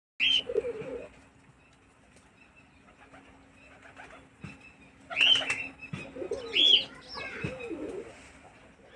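Pigeons cooing in low, warbling phrases, with a short, loud, higher-pitched bird call breaking in three times. A faint steady hum sits underneath.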